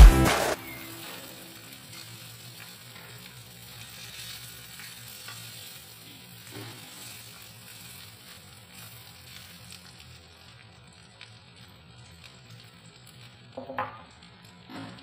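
Beef slices and onions frying in oil in a wok, a faint steady sizzle. A couple of brief knocks come near the end. Background music cuts off just after the start.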